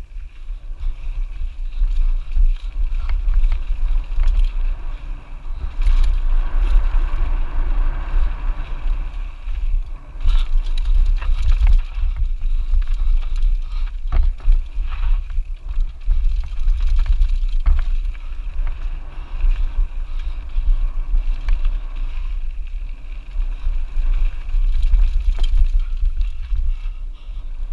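Wind buffeting the microphone over the rattle of a Lapierre Zesty AM mountain bike descending a rough trail, with scattered sharp knocks from bumps.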